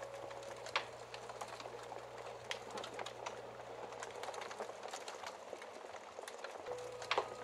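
Wood fire crackling, with scattered sharp pops and snaps over a soft hiss. A faint piano note fades out at the start, and another begins softly near the end.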